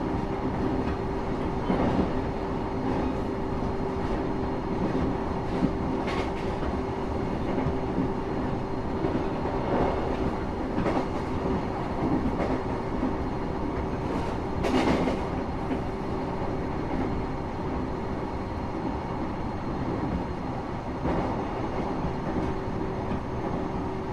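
Train running along the track, heard from inside the carriage: a steady rumble with a constant hum, and now and then a clack from the wheels passing over rail joints.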